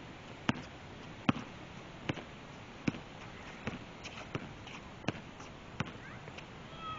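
A basketball being dribbled, bouncing on the court at a steady pace of a little more than one bounce a second, eight bounces in all.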